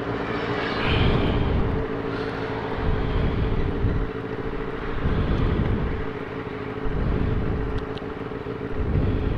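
Benelli TNT 600's inline-four engine running at a steady cruise, with wind buffeting the microphone in gusts that come and go every second or two.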